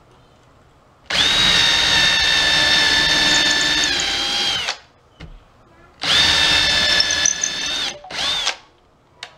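Power drill working into a new wooden support board under a pool table, run in three bursts: a long run of about three and a half seconds whose pitch sags slightly as it stops, a shorter run of about two seconds, and a brief half-second burst near the end.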